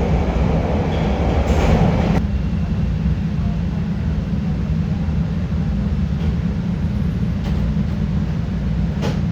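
A Chicago CTA Red Line subway train heard from inside the car as it runs through the tunnel. A loud rolling rumble drops off suddenly about two seconds in to a steadier low rumble, with a few faint clicks later on.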